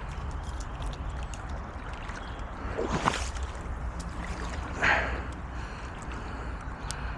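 Creek water running, with a steady low rumble of wind on the microphone and two brief louder sounds about three and five seconds in.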